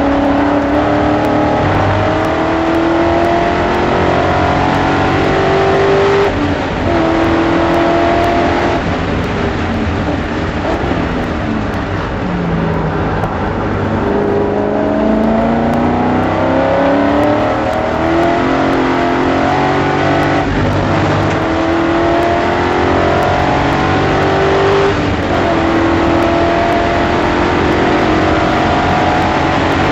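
BMW S62 V8 engine in an E30 race car at full throttle, revs climbing and dropping back at each upshift. Near the middle the revs fall away as the car brakes and downshifts, then build again through the gears.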